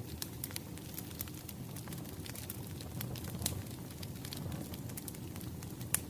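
Wood fire crackling: a steady low rumble with irregular sharp pops and snaps, one louder pop near the end.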